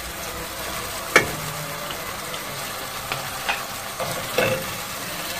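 Garlic, tomato paste and freshly added ground spices sizzling steadily in hot oil in a non-stick saucepan, stirred with a wooden spoon. A few sharp knocks against the pan, the loudest about a second in.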